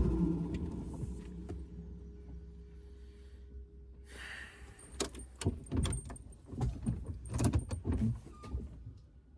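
The Jeep's swapped diesel engine dies away in the first couple of seconds. Then, about five seconds in, a cluster of sharp clicks and rattles runs for a few seconds, like keys and controls being handled in the cab.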